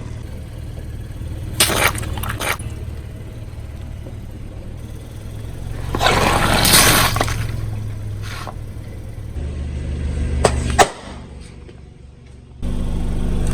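A car tyre rolling over and crushing objects, with the engine running low underneath: a few sharp cracks a little under 2 s in, a louder crunching, breaking burst around 6 to 7 s, and two sharp snaps near 11 s. The engine sound drops out briefly near the end, then returns.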